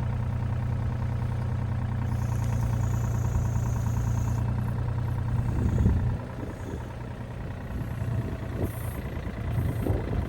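An engine idling steadily, its hum easing and getting quieter about six seconds in.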